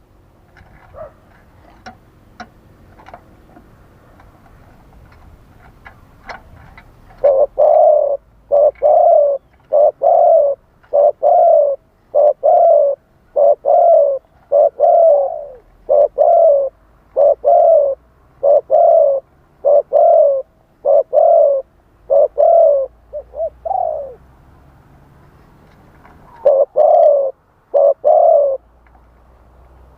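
Spotted dove cooing: after a quiet start, a long series of loud, evenly paced low coo notes about a second apart, then a pause and three more coos near the end.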